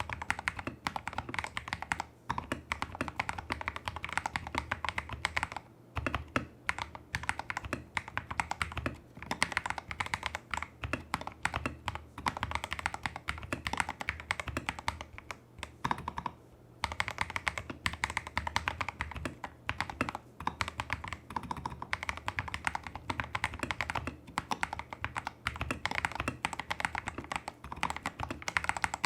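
Continuous fast typing on a Tester68 mechanical keyboard with lubed Holy Panda-clone tactile switches, a taped PCB, greased stabilizers and XDA-profile keycaps: a dense run of keystroke clacks, with a short pause about six seconds in and another past the middle.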